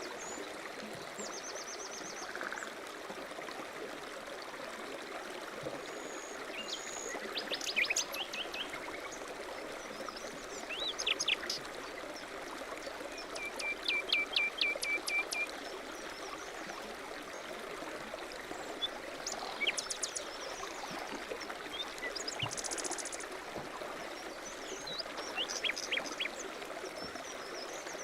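A stream running steadily, with small birds calling over it: scattered chirps and whistles, and a quick trill about halfway through.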